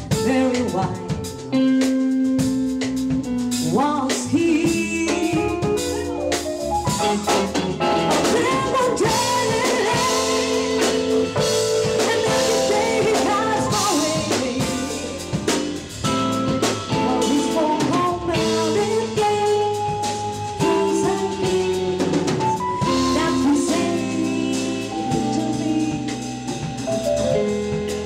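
Live jazz band of voice, electric guitar, bass, drum kit and keyboard playing a slow number, with the drum kit prominent and a bending melodic line, sung or played, over the accompaniment.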